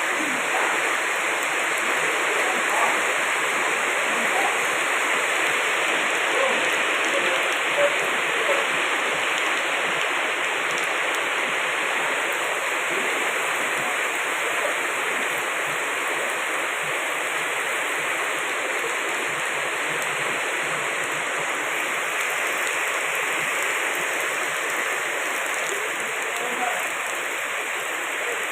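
Heavy rain falling steadily, a dense even hiss of water with scattered louder drops and splashes.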